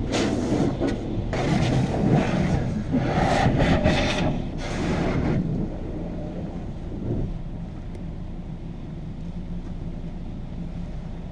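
Rushing, rubbing bursts of car-wash pre-wash on the outside of the car, heard from inside the cabin, stopping about five seconds in. After that the 2004 Volvo S60 2.0T's five-cylinder turbo petrol engine idles steadily.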